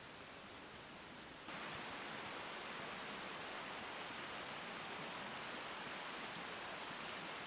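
Steady rushing outdoor noise with no distinct events, jumping louder about a second and a half in.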